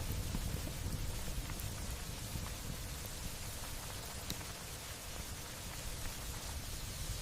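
Steady light rain hissing, with a low rumble underneath and a few faint ticks of single drops.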